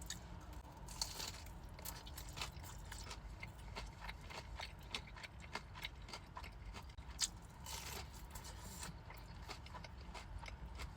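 Close-miked chewing and crunching of crispy breaded fried chicken tenders: many short crisp crunches and wet chewing clicks, with denser runs of crunching about a second in and again around eight seconds in.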